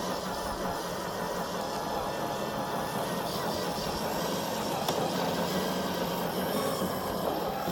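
Electric motor and gearbox of an FMS FJ40 RC crawler truck whirring steadily as it drives over the forest trail.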